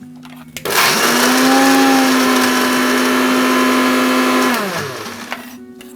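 Electric blender switched on, grinding boiled green peas into a paste. It runs steadily for about four seconds, then is switched off and winds down.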